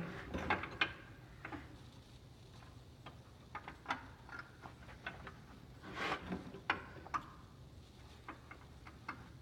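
Scattered light metallic clicks and clinks at an irregular pace as brake shoe springs and hardware on a heavy truck drum brake are worked by hand into place, with a small cluster of clinks about six seconds in.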